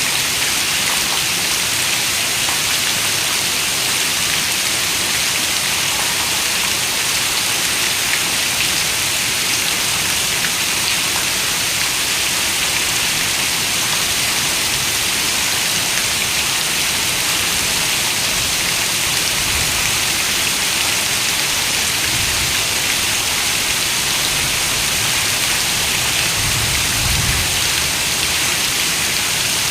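Heavy rain falling steadily on a window: a dense, even hiss with no break. A few soft low rumbles come in the second half.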